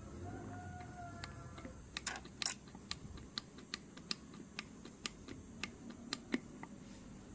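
Irregular light clicks and taps of hand tools and small engine parts being handled, with a faint short squeak near the start.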